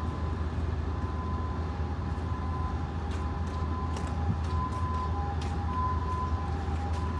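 A vehicle engine running steadily: a low hum with a faint thin whine above it and a few light clicks.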